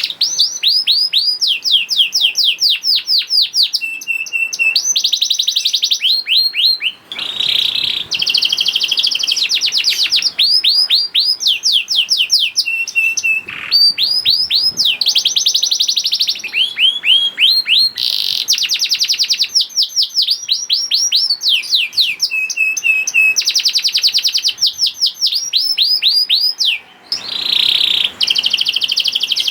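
Domestic canary singing continuously, a long song of fast trills of repeated notes that switch to a new trill every second or two, with brief breaks about 7 and 27 seconds in.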